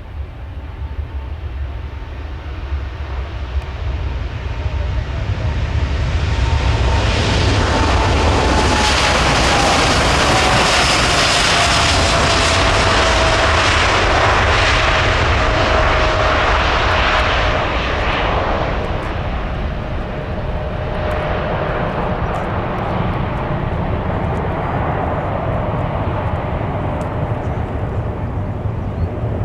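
Jet airliner's engines at takeoff power passing by: the roar builds over several seconds, peaks around the middle, then eases as it moves away. A fan whine drops in pitch as it goes past.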